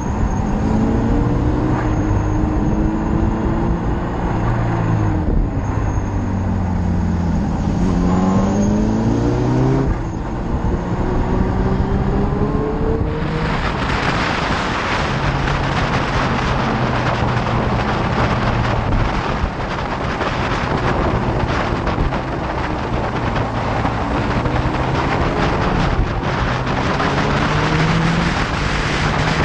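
Motorcycle engine under way, its revs rising and falling through gear changes. About halfway through, a loud rush of wind noise on the microphone builds up and covers much of the engine as speed increases.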